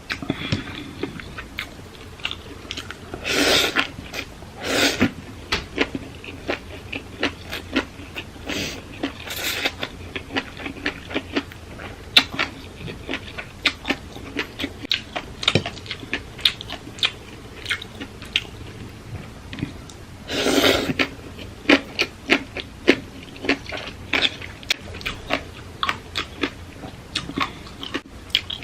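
A person chewing and crunching food close to the microphone, most likely papaya salad with baby octopus, in a quick, irregular run of crisp crunches. It is broken by a few longer, louder stretches of noise, about three and five seconds in and again past the twenty-second mark.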